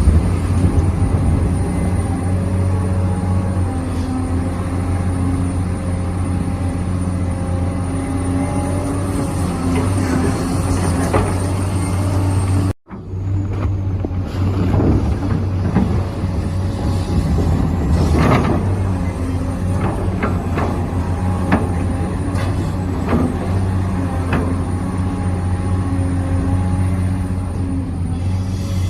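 Remote-control hydraulic excavator model working: a steady hum from its hydraulic pump, with a faint high whine that rises and falls and occasional short clacks. The sound cuts out for a moment about halfway through.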